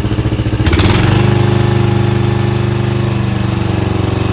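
Lawn mower engine running steadily. Less than a second in, a brief burst of noise comes and the engine note shifts, then it runs on evenly, a little louder.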